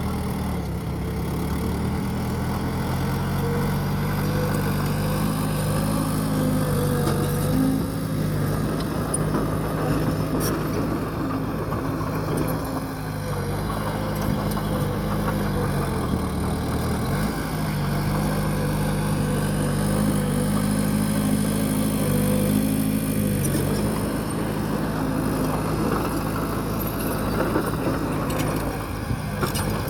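Heavy diesel bulldozer engine running under working load, its pitch dipping and recovering a couple of times as it pushes soil.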